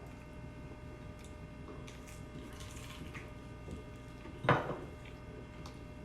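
A person eating fried chicken: faint mouth and eating ticks over a steady low hum, with one loud, short, sharp sound about four and a half seconds in.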